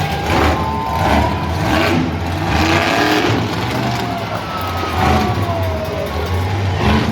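Monster truck engine running and revving: a low drone with repeated surges.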